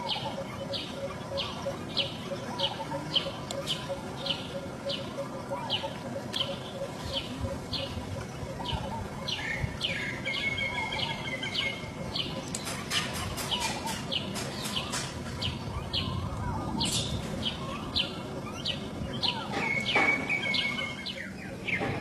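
A bird chirping over and over, about two short high chirps a second, with a few longer whistled notes. A brief run of sharp clicks comes near the middle.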